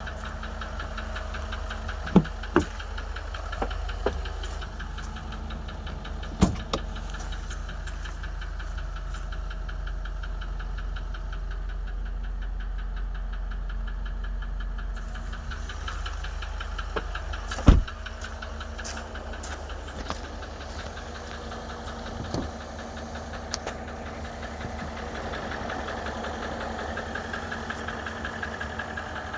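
Range Rover Vogue L405 engine idling with a fast, even knocking from the upper right side of the engine. A few sharp, louder knocks stand out over it, the loudest about two-thirds of the way through.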